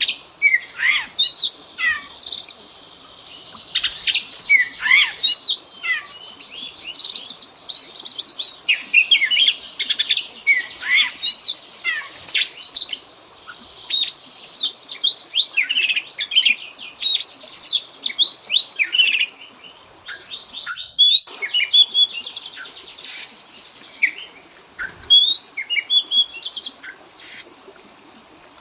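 Oriental magpie-robin (kacer) singing a rapid, varied song of chirps and sliding whistled notes, packed with phrases mimicked from other birds, with one brief break about two-thirds through.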